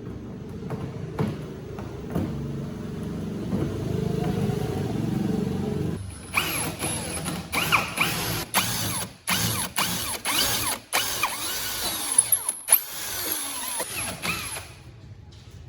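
Power tool running during workshop fabrication: a steady low motor hum, then about six seconds in a sharper, higher-pitched tool sound that starts and stops repeatedly.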